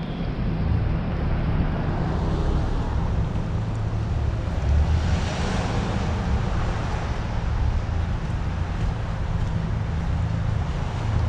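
Outdoor street ambience: a steady low rumble with wind on the microphone, and a broad swell of noise, like a vehicle passing, peaking about five to six seconds in.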